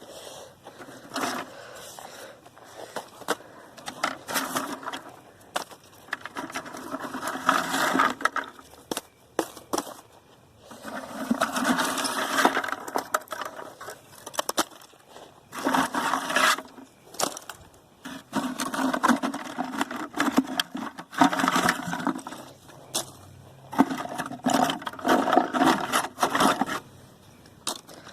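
Sticks and firewood being handled and set into a fire pit, with irregular scraping, knocking and clattering of wood.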